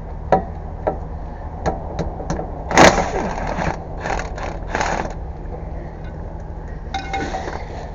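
Hand tools and metal parts clicking and clattering in short bursts, over a steady low hum.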